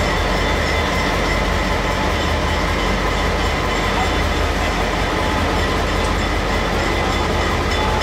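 Train running steadily: a constant rumble with a low hum underneath and no breaks.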